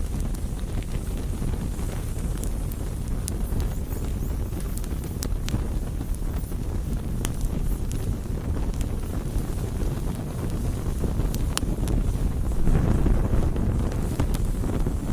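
Bonfire burning: a steady low rush with scattered sharp crackles and pops from the burning wood, swelling briefly near the end.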